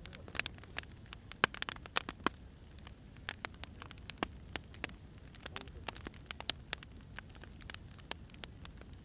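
Firewood burning in a fire, crackling with irregular sharp pops, several a second, over a low steady rumble.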